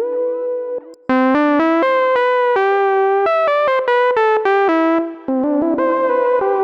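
Roland System-100 software synthesizer playing a preset. A held note fades away, then after a brief gap about a second in comes a quick run of short notes stepping up and down in pitch, several a second. About five seconds in the sound changes to a new line of notes.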